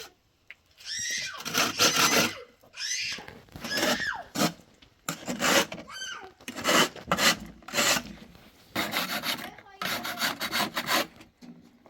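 Repeated rasping, scraping strokes, about one a second and somewhat irregular, each lasting a fraction of a second.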